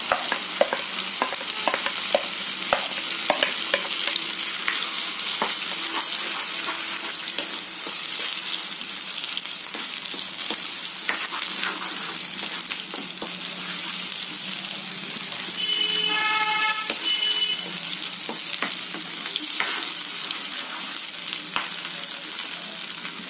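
Ground onion-cashew paste sizzling as it fries in hot oil in a kadhai, stirred with a cooking spoon that clicks and scrapes against the pan. About two-thirds of the way through, a steady tone sounds for about two seconds.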